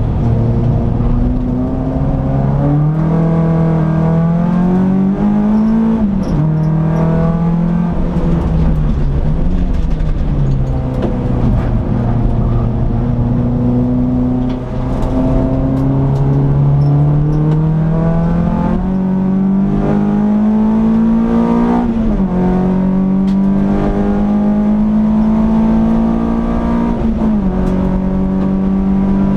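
Peugeot 206 S16's 2.0-litre 16-valve four-cylinder engine driven hard, heard from inside the cabin: the revs climb under acceleration, drop sharply with upshifts about six seconds in and twice near the end, and fall away for a while as the throttle is lifted for a corner.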